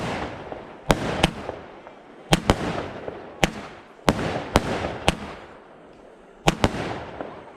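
Jorge 16-shot firework cake firing: about a dozen sharp bangs, several in quick pairs, each followed by a hiss that fades over about a second.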